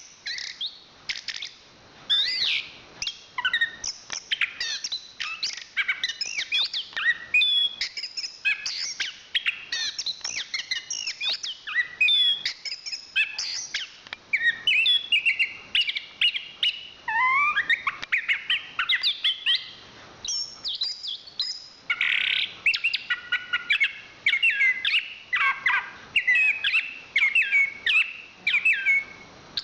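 Chestnut-capped thrush singing a long, rapid, varied song of quick chirps, trills and whistled slurs, with hardly a pause.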